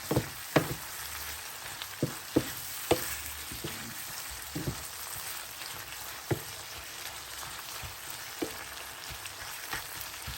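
Green bean curry sizzling in a pan as its sauce cooks down and dries, with a spatula stirring it and knocking against the pan every second or so, more often in the first few seconds.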